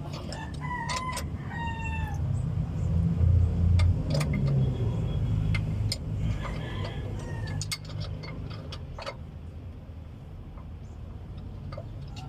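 A low rumble that swells between about two and six seconds in, with an animal calling in short falling cries near the start and again around seven seconds, and scattered light clicks throughout.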